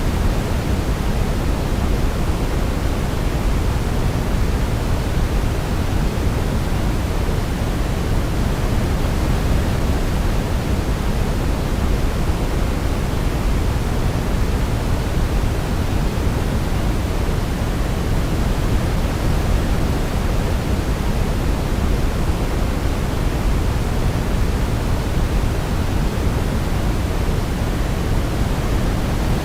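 Steady electronic sleep noise, a constant even hiss weighted toward the low end, deeper than pure white noise, with no changes.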